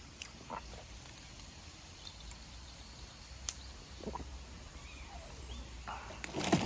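Quiet outdoor ambience: a faint steady low rumble with a few soft knocks and light clicks.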